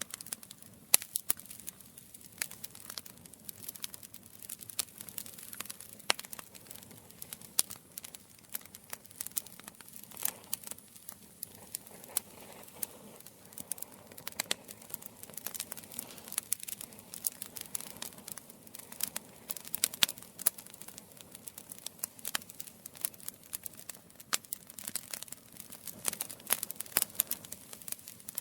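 Campfire crackling: a dense, irregular run of sharp pops and snaps over a soft, low hiss.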